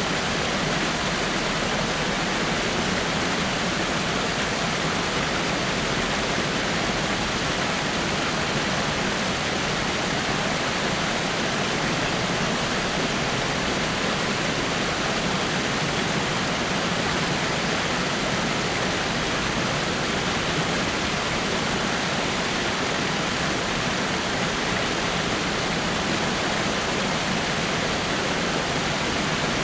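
Water falling over rocks in a waterfall, a steady, unbroken rush.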